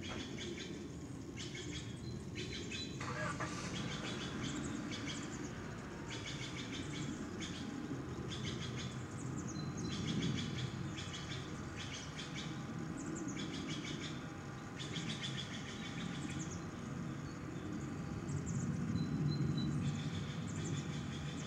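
A bird calling in repeated short bursts of rapid high chirps, about a dozen bursts, over a steady low background rumble.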